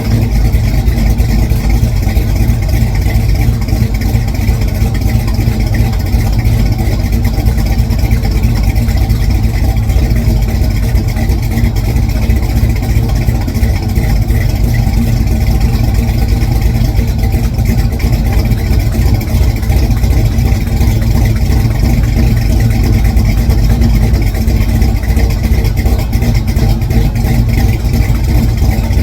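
Car engine running steadily, a low, even rumble with no revs or pauses.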